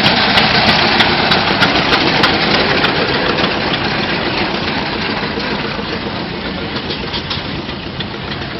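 An old engine running steadily at idle with a knocking beat, gradually getting quieter.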